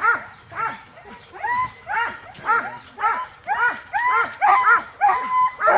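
A team of sled dogs barking and yipping in a rapid, overlapping chorus of short high calls.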